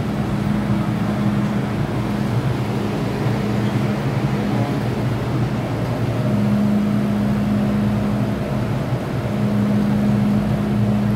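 MTR Island Line M-Train running through the tunnel, heard from the driving cab: a steady rumble of wheels and running gear. Over it a low motor hum cuts in and out several times.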